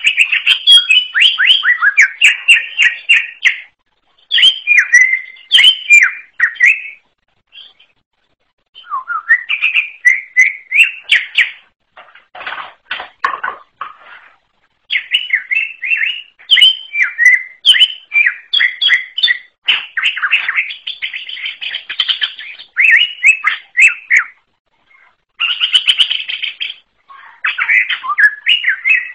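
Green leafbird (cucak ijo) singing: fast, varied chattering phrases of a few seconds each, with short pauses between them.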